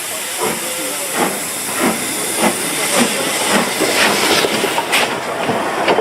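Steam locomotive getting under way: a steady hiss of escaping steam with exhaust chuffs about every half second, coming a little quicker and louder as it goes.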